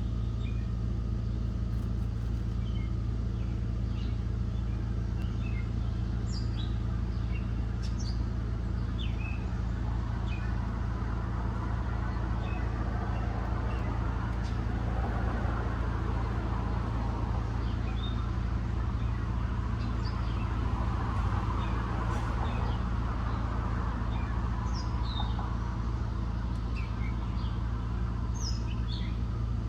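Small birds at a feeder giving short, high chirps scattered throughout, over a steady low hum. The rush of passing vehicles swells twice, around the middle and again about two-thirds of the way through.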